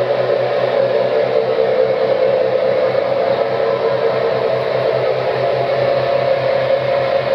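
Panasonic NA-FA100H3 washing machine running: a steady whir with a strong tone and a low hum that pulses about five times a second.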